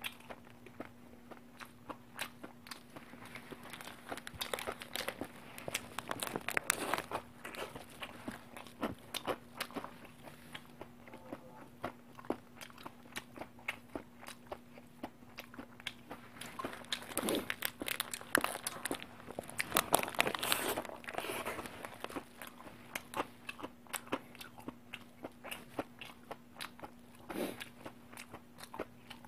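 Close-up chewing and biting of a barbecue hamburger, with many sharp wet mouth clicks and now and then louder bites or a rustle of the paper wrapper. A low steady hum runs underneath.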